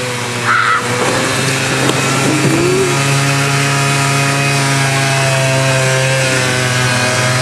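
Quad bike (ATV) engine running steadily, its pitch holding fairly constant, with a brief high-pitched sound about half a second in.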